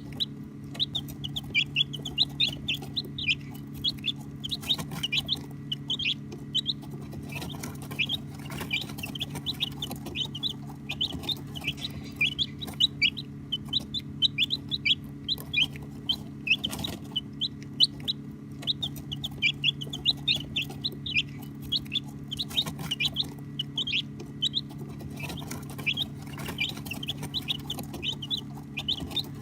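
A group of baby chicks peeping continuously: many short, high-pitched chirps overlapping, several a second, over a steady low hum.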